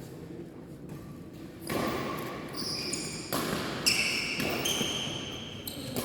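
Badminton play on an indoor court: shoes squeaking sharply on the floor several times and a racket smacking the shuttlecock once, starting about two seconds in.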